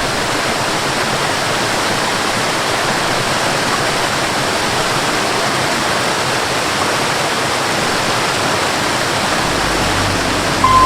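Waterfall rushing, a dense, steady hiss of falling water. Near the end a low bass drone and the first note of a melody come in.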